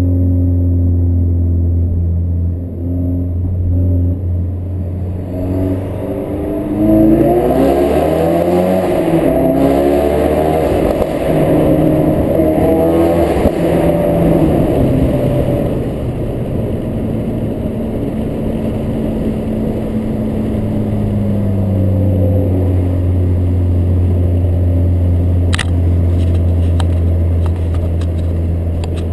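Ford Focus RS mk3's 2.3-litre turbocharged four-cylinder through a Milltek Sport non-resonated decat exhaust. It runs at a steady note, revs up with rising pitch from about six seconds in, then settles back to a steady drone from about sixteen seconds. There is one sharp crack near the end.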